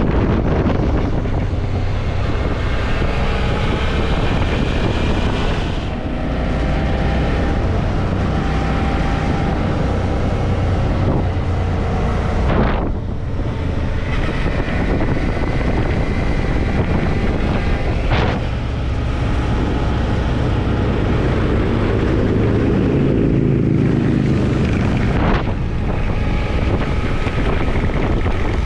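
Suzuki V-Strom motorcycle engine running under way, buried in heavy wind noise on the microphone. The engine note drifts up and down, climbs in the last third, and has a few short breaks.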